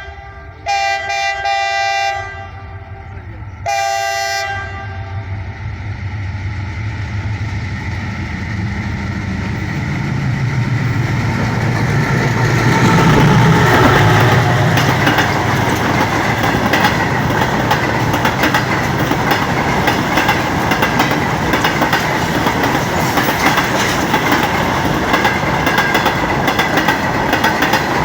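WDG6G diesel locomotive sounding its multi-tone horn in two blasts, the second shorter, about a second and four seconds in. The train then runs past: the locomotive's drone rises to its loudest around the middle, followed by the steady rumble and wheel clatter of the passing wagons.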